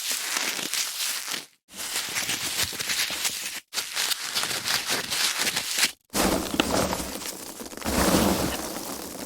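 Foam packaging being handled: a dense crackling, rustling noise that stops dead for an instant three times, as separate takes follow one another.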